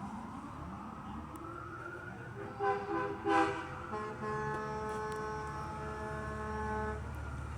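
An emergency-vehicle siren wailing down and back up, then a truck's air horn: two short blasts followed by one long held blast.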